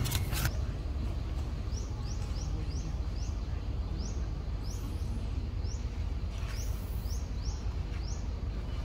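A bird calling: a run of short, high, rising chirps, about two a second, over a low steady rumble.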